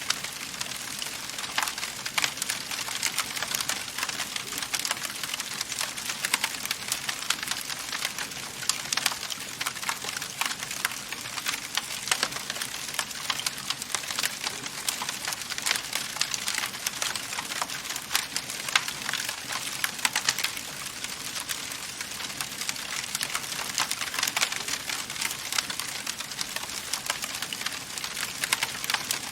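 Wood fire burning in a fireplace: a steady hiss with dense, irregular crackles and pops of burning wood.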